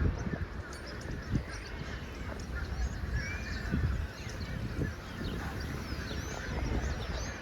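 A large flock of birds calling at once, many overlapping short chirps and calls, with occasional low thumps underneath.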